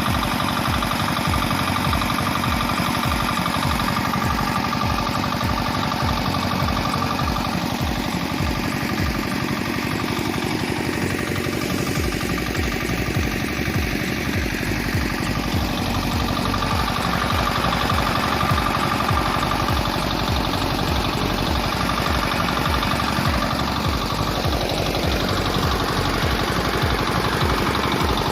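Small 4 hp Chinese diesel engine running steadily, its firing strokes making an even, rapid beat.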